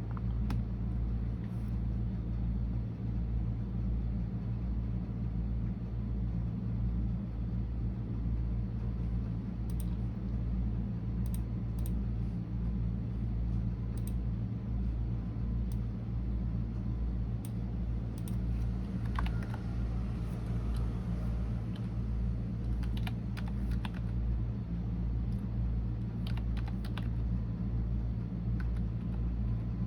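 Computer keyboard typing: scattered keystroke clicks, sparse at first and coming more often in the second half, over a steady low hum.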